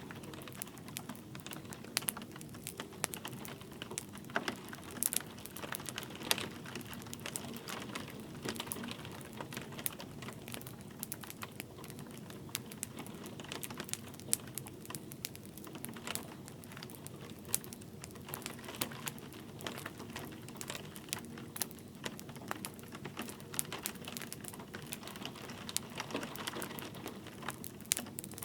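Wood fire crackling in a fireplace, with many irregular sharp pops and snaps, over a steady hiss of light rain.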